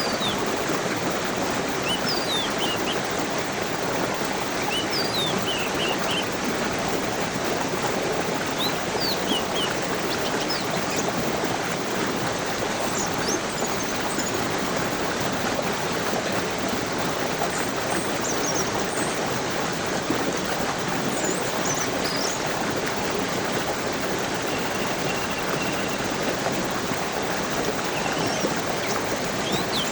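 A stream running steadily, with birds chirping in short high calls scattered throughout.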